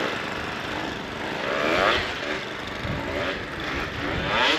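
KTM 150 single-cylinder two-stroke dirt bike engine being ridden, revving up and dropping back several times as the throttle is worked.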